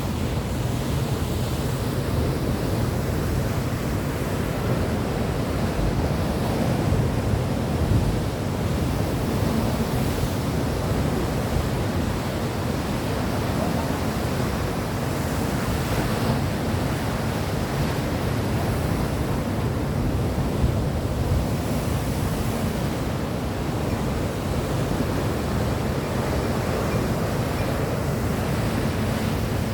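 Steady rush of sea surf and wind, with wind rumbling on the microphone.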